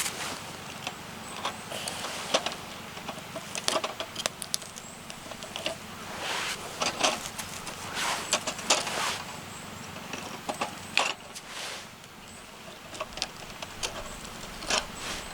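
Irregular clicks, light knocks and rustling of things being handled, over a steady low background hum.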